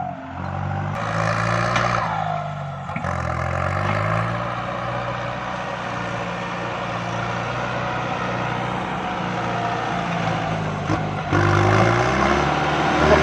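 Kubota MU5702 tractor's diesel engine running under load while pushing soil. The engine speed rises and falls, and the engine grows louder a little before the end.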